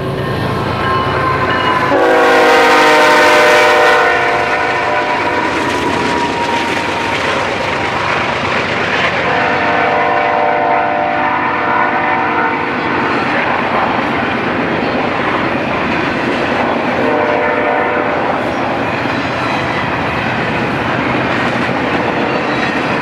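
BNSF double-stack intermodal freight train passing at speed, its locomotives' multi-chime air horn sounding three times: a long loud blast about two seconds in, another near the middle and a short one later. Under the horn, the steady rumble and clickety-clack of the well cars' wheels over the rail joints.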